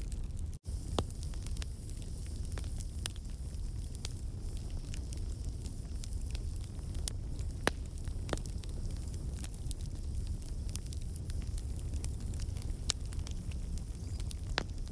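Campfire of burning logs crackling steadily over a low rumble of flame, with scattered sharp pops from sap and moisture in the wood escaping as steam. A momentary dropout comes about half a second in.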